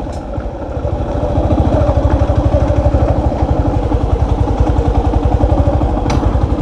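Small motorcycle engine running at low speed as the bike rolls slowly, an even, fast pulsing putter that grows louder about a second in. A single short click near the end.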